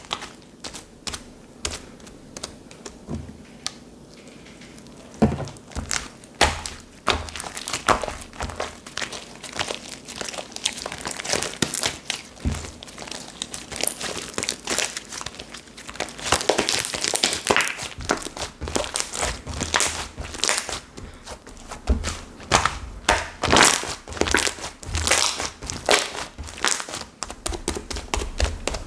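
Slime being squished, pressed and stretched by hand, giving irregular sticky crackling and popping clicks, some in quick clusters.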